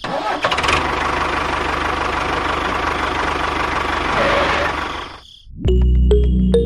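Small motor of a DIY mini tractor running steadily, cutting off abruptly about five seconds in. After a brief silence, background music starts near the end.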